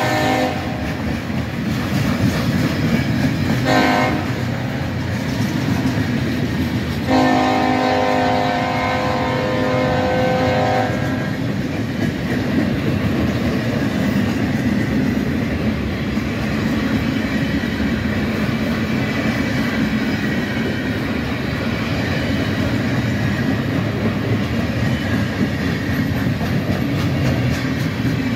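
Loaded military freight train of flatcars rolling past with a steady rumble and wheel clatter. The Union Pacific-led train's horn sounds three times: a blast ending just after the start, a short one about 4 s in, and a long one from about 7 to 11 s.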